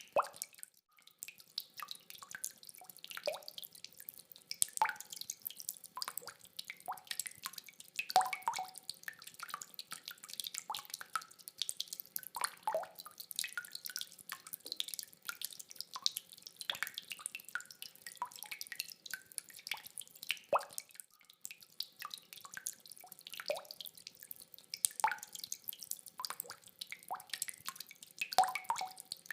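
Rainwater dripping: separate drops falling irregularly, a few a second, some louder and closer than others, over a faint steady wash.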